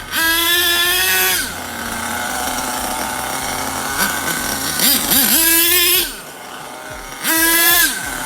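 Small RC nitro engine running. It is revved up sharply three times, with a high rising whine that holds briefly, and settles back to a lower steady running sound in between.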